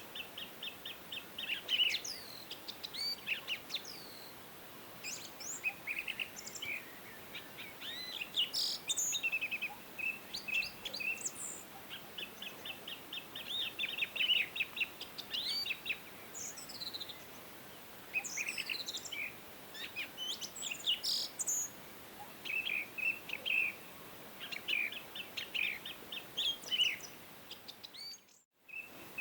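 Several songbirds singing over one another: a dense mix of short chirps, whistled notes and rapid trills over a faint steady hiss. The sound cuts out briefly near the end.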